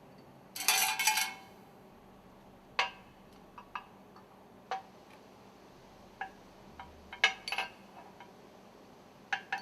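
Metal stuffing-box ring segments clinking as they are handled and set down on a work table: a brief rattling cluster about half a second in, then scattered single clinks.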